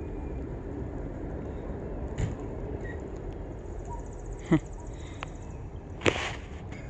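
Steady hiss of rain falling, with a few short animal calls over it: one sharp falling call a little past halfway and a louder brief sound near the end.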